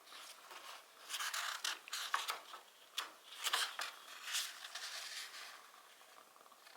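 Irregular bursts of dry rustling and scraping with a few sharp clicks, about five of them over a few seconds.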